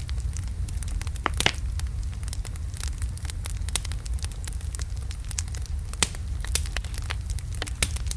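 Wood fire of large logs burning, with a steady low rumble and irregular sharp crackles and pops, a louder pop about a second and a half in.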